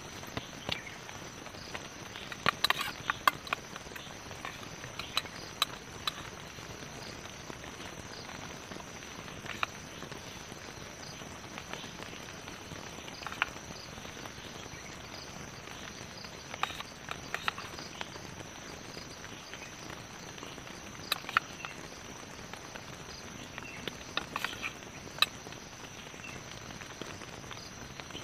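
Steady light rain hiss with scattered sharp ticks and taps, some in small clusters, over a faint steady high-pitched tone.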